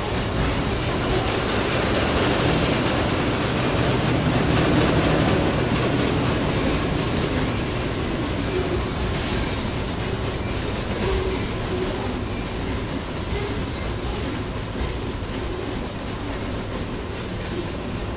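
A train passing close by, its wheels rumbling and clattering over the rails. The sound is loudest about four to five seconds in, then slowly fades as the train moves away.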